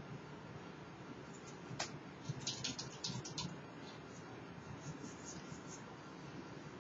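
Typing on a computer keyboard: a single keystroke about two seconds in, then a quick irregular run of keystrokes, and a few fainter clicks later, over a steady low hiss.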